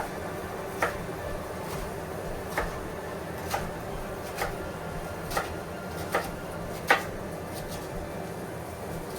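A series of short, light knocks or taps, about one a second and uneven in strength, over a steady background hum.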